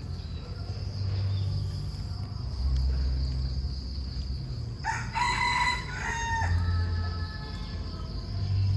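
A rooster crows once, about five seconds in, lasting under two seconds, over low, slowly changing background music and a steady high insect-like hum.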